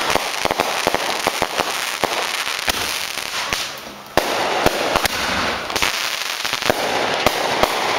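Consumer fireworks going off: a rapid run of sharp pops and crackling. It fades briefly about four seconds in, then starts again abruptly.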